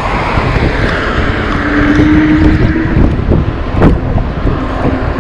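Wind buffeting the microphone and low road rumble while riding an Engwe Engine Pro fat-tyre electric bike under pedal assist. A steady whine runs for about a second and a half, starting about a second and a half in, and there is a sharp click near the end.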